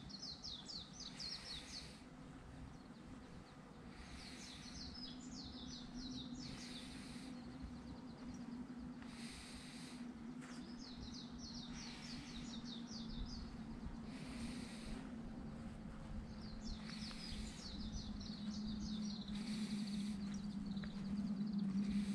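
A songbird singing, each phrase a quick run of high chirping notes, repeated every few seconds. Under it runs a steady low hum that grows louder near the end, with soft hiss patches about every two and a half seconds.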